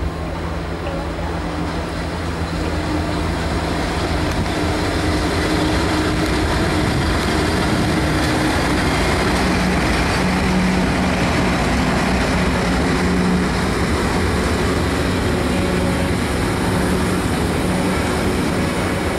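Two SBB Re 4/4 II electric locomotives hauling a container freight train past at close range: a steady hum from the locomotives over the rumble of wheels on rail. It grows louder over the first several seconds as the locomotives come alongside, and then the wagons keep rolling by.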